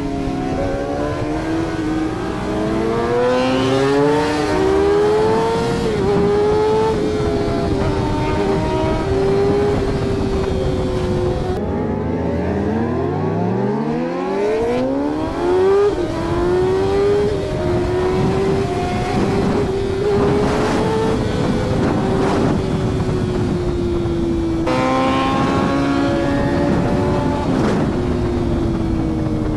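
Superbike engine running at high revs, its pitch rising and falling as the throttle is opened and eased, with a long drop and a climb back up about halfway through.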